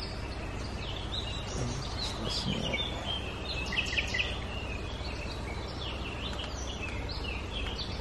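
Birds chirping and calling in woodland: many short high notes, thickest around the middle, over a low steady rumble.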